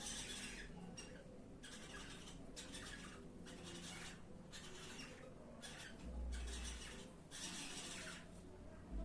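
Birds mating, giving a series of short, hissy, raspy calls with brief pauses between them.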